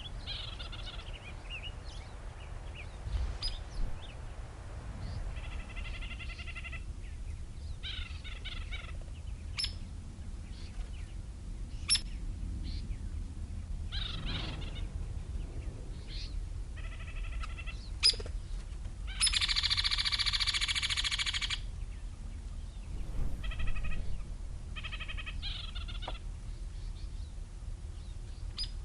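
Birds calling repeatedly in a series of short calls, over a steady low background rumble. The loudest, longest call comes about two-thirds of the way through.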